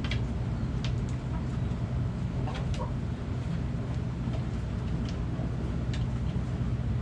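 A steady low mechanical rumble runs throughout, loudest of all, with short high chirps scattered over it and a brief chicken cluck a little before the middle.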